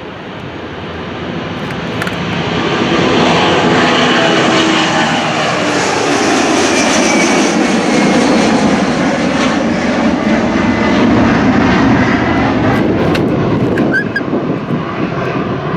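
Airplane engines growing loud over the first few seconds as the aircraft passes close by, then staying loud, with the engine pitch sliding down as it goes past.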